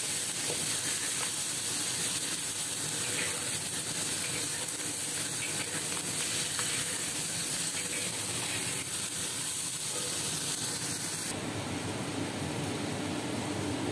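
Chicken pieces sizzling in a hot black wok, with a metal wok spatula scraping and clicking against the pan as it turns them. Near the end the sizzle drops away to a lower, steadier rush.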